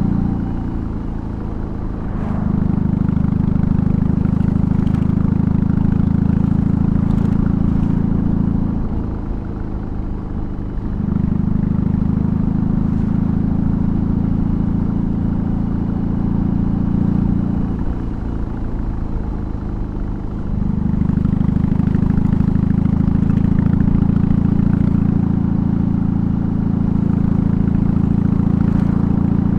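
BMW R18's big air/oil-cooled boxer twin running under way, its exhaust note easing off three times, about a second in, around nine seconds and around eighteen seconds, and picking back up each time.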